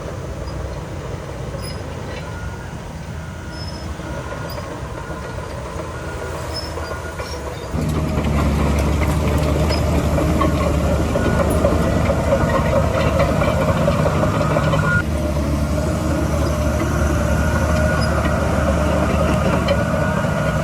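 Diesel earthmoving machinery running steadily, a low engine drone with metallic clanking. It becomes abruptly louder about eight seconds in.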